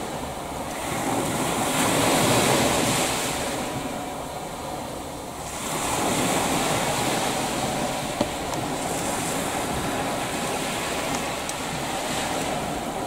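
Sea surf washing on the shore, swelling and ebbing in slow waves, with wind rumbling on the microphone. One small click about eight seconds in.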